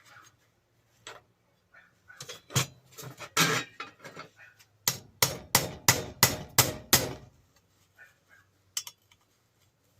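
Hammer striking metal on a grinder to shift a stuck part: a few irregular knocks, then seven quick, evenly spaced blows over about two seconds.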